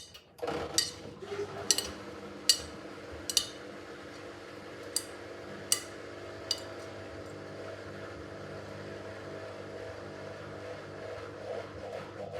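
Miele W5801 washing machine's drum motor starting and running with a steady hum. Over the first six or so seconds, sharp clinks come about once a second, as the turning drum knocks the load against its steel sides; after that the hum runs on alone.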